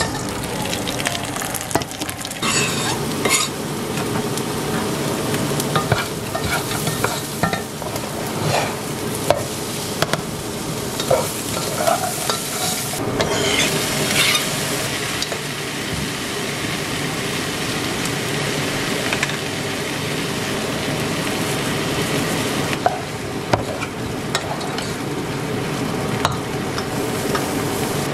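Chicken pieces sizzling as they fry in a large nonstick pot while being stirred with a wooden spoon, with scattered knocks of the spoon against the pot.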